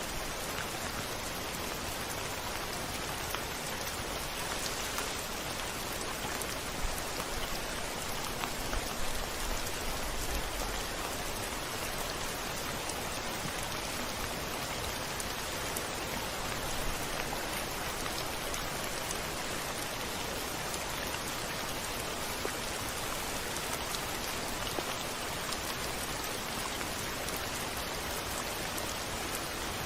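Steady rain with scattered louder drops tapping against a window pane.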